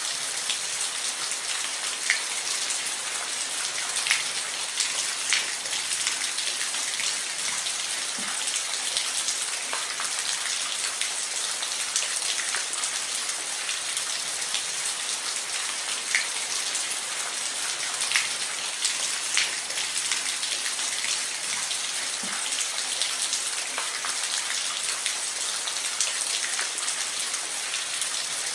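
Steady rain on a roof: an even hiss with individual drops ticking now and then, a few louder than the rest.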